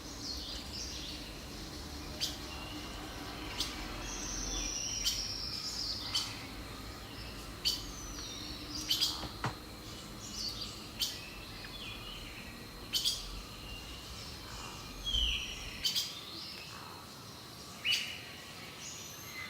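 Birds chirping and calling: short high notes and quick downward-sliding whistles, one every second or so, over a faint steady background hiss.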